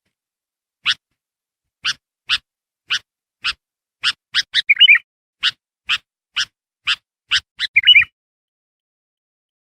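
Sooty-headed bulbul (kutilang) calling: a run of short, sharp chip notes about two a second, broken twice by a louder warbled phrase about five and eight seconds in, falling silent about eight seconds in.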